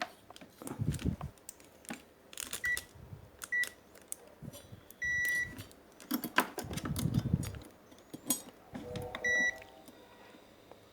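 Digital multimeter's continuity beeper sounding four times, three short beeps and one longer half-second beep, as the probes touch points on the circuit board, with clicks and handling noise between.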